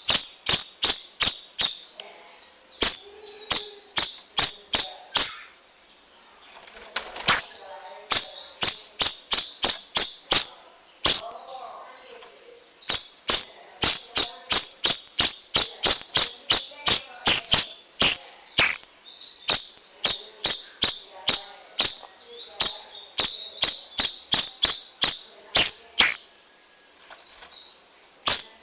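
Cucak rawis (bayeman) singing in long rapid runs of sharp, high notes, about four or five a second, with short breaks about six seconds in and near the end.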